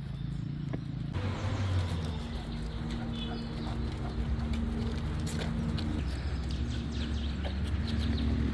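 A motor running with a steady hum that starts about a second in, with scattered light clicks over it.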